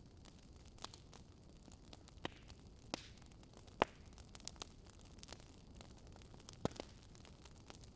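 Burning wood crackling: scattered sharp pops and snaps over a soft steady hiss, the loudest about four seconds in and again near seven seconds.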